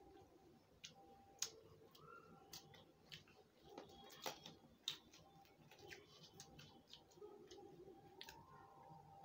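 Faint, irregular clicks and crunches of chewing a fried bread pakoda and tearing its crisp batter crust by hand, with a few sharper clicks.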